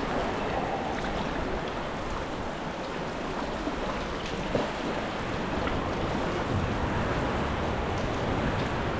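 Sea water splashing and lapping around a sea kayak as it is paddled, with scattered drips and one brief sharper splash about four and a half seconds in.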